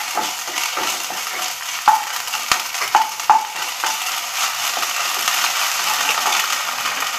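Sliced onions, green chillies and ginger sizzling in oil in a frying pan as a wooden spatula stirs them, with a few sharp knocks of the spatula against the pan around the middle.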